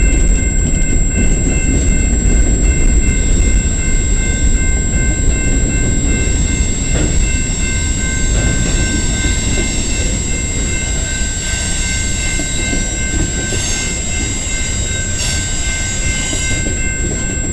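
Freight cars of a slow-moving freight train rolling past close by: a steady low rumble of steel wheels on rail, with a thin, steady high squeal from the cars' wheels. A few short clatters come near the end.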